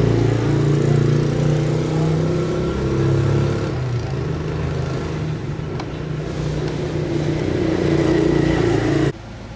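A motor running steadily with a slightly wavering pitch, cut off abruptly near the end.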